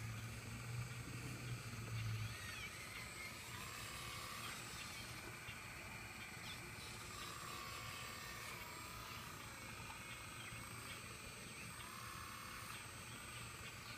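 A faint low hum that stops about two seconds in, then birds chirping faintly with short gliding calls over a light background hiss.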